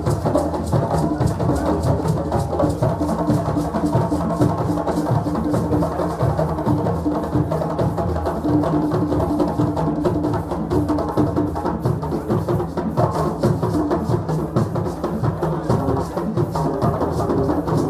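West African drums playing a fast, steady, repeating rhythm, with deep strokes underneath and sharper knocks on top.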